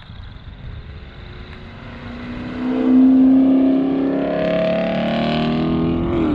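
A car engine accelerating. It grows loud about three seconds in, climbs slowly in pitch, and cuts off suddenly at the end.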